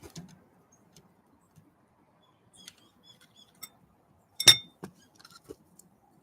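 Birds at a feeder: scattered light taps and clicks of pecking and landing, with a few short high chips, and one loud knock with a brief ring about four and a half seconds in.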